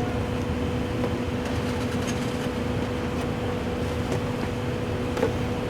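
A steady mechanical hum with a constant low tone and a faint higher one, over a low rumble, with a few faint clicks.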